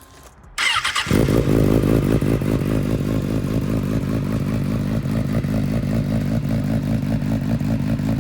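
Kawasaki Ninja ZX-6R 636 inline-four with a Yoshimura full exhaust being started: a brief crank about half a second in, then it catches and runs at a steady fast idle. This is a cold start, with the engine still warming up before the idle settles.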